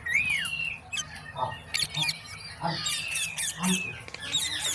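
Pet green parrot calling: a string of short whistled chirps and squawky notes that bend up and down in pitch, mixed with sharp clicks.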